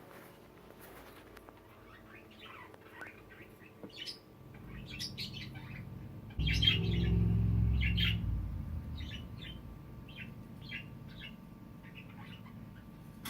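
Budgies chirping in many short, high chirps. About halfway through, a louder low rumble lasts around two seconds.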